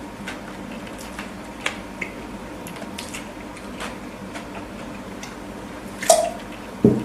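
Close-miked wet chewing of a burger: scattered soft clicks and squishes of the mouth, with a louder smack about six seconds in and a low thump just before the end.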